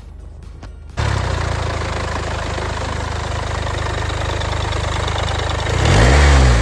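Mercedes OM651 2.1-litre four-cylinder diesel idling steadily, starting suddenly about a second in, then a brief rev that rises and falls back near the end.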